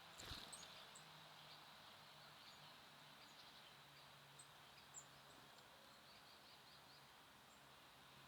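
Faint, scattered high bird chirps and a short run of quick call notes over quiet background hiss.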